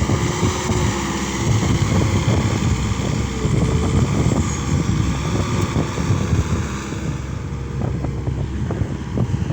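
Case SR200 skid steer loader's diesel engine running hard under load, with a faint whine that climbs in pitch over the first few seconds.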